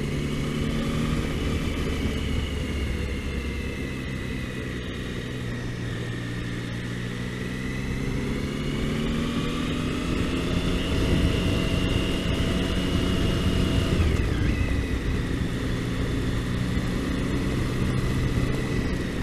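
Triumph Tiger motorcycle engine running under way on a slow, twisty climb, its pitch rising and falling with the throttle, with a quick drop in pitch about fourteen seconds in.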